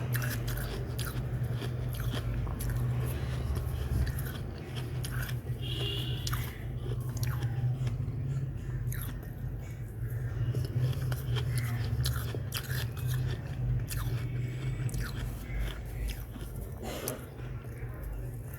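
Close-up chewing and crunching of refrozen freezer frost, a steady run of crisp irregular crunches and crackles, over a steady low hum.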